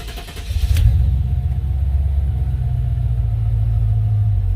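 Chevrolet LT1 V8 of a 1995 Impala SS cranking, catching about a second in, then running with a steady rumble. The engine starts and then dies, typical of the vacuum leak from its brittle vacuum hoses.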